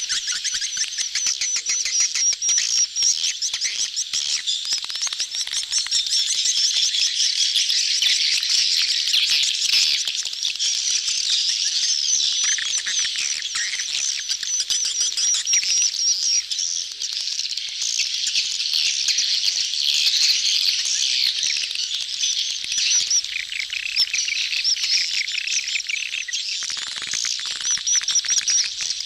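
A dense crowd of swiftlets twittering continuously, many high chirps overlapping: a colony's mating-season crowd calls, the kind used as a swiftlet lure call.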